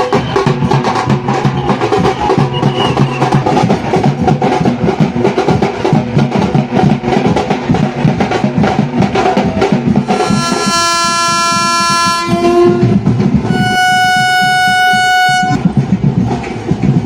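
Vande Bharat Express trainset horn sounding two long steady blasts about ten seconds in, over continuous rhythmic drumming.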